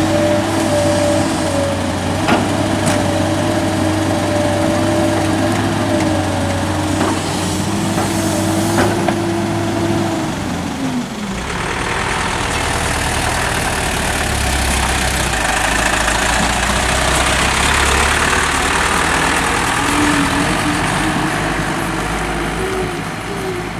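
Heavy diesel machinery running: a steady engine hum with a few knocks, whose pitch drops away about ten seconds in. A rougher, lower diesel rumble with hiss then takes over.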